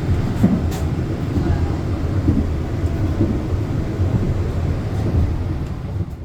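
Steady low rumble of a moving passenger train heard from inside a new-generation coach, with a few faint clicks.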